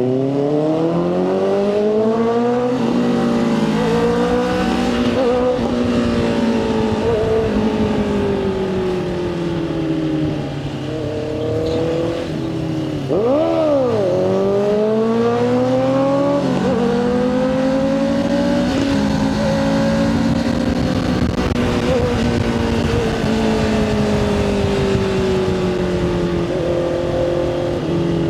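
Motorcycle engine under way, its pitch climbing and falling as the rider accelerates, shifts and eases off, with wind and road noise underneath. About halfway through the pitch dips sharply and jumps back up, then climbs again.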